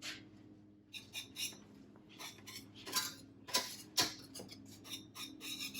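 A metal utensil clinking and scraping against a saucepan in quick, irregular strokes as a cream-cheese sauce is stirred together, over a faint steady hum.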